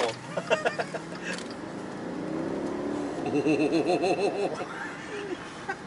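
Maserati Quattroporte GTS's 3.8-litre twin-turbo V8 pulling under acceleration, heard from inside the cabin. The engine note builds from about two seconds in, is loudest in the middle and eases off near the end.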